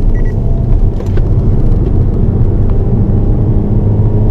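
Hyundai Avante N's turbocharged four-cylinder engine running hard at speed, heard from inside the cabin with a heavy, steady rumble.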